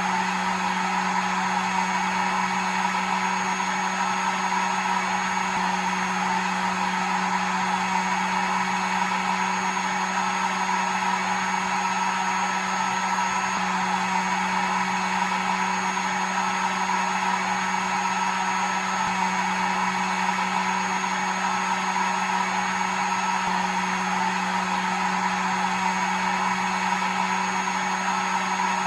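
Hair dryer running steadily: an even rush of blown air over a constant low motor hum.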